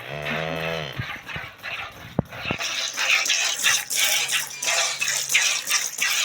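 A cow gives a short moo, about a second long. Then come rhythmic hissing squirts, two or three a second, like milk jets from hand-milking hitting a pail.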